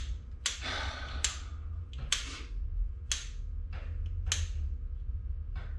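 Irregular series of sharp clicks and taps, about eight over a few seconds, over a low steady hum.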